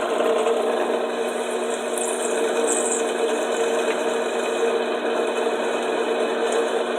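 Drill press running steadily with a motor hum while its bit cuts into quarter-inch steel flat bar.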